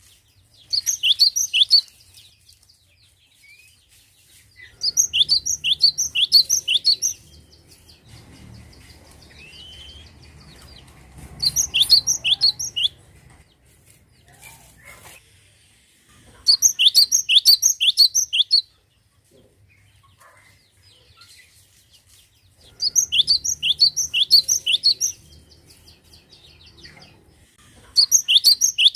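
Cinereous tit (gelatik batu) singing: six bouts of rapid, evenly repeated high notes, each bout lasting one to two seconds, with a few seconds' pause between them.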